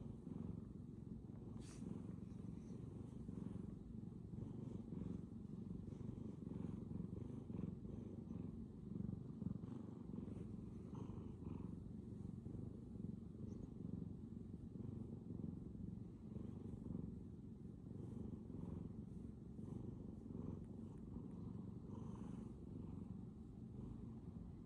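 Bengal cat purring, a steady low purr that runs on without pause, at full throttle.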